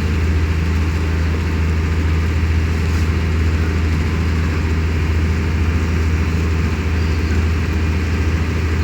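Passenger ferry boat's diesel engine running steadily under way, a constant low drone with no change in speed.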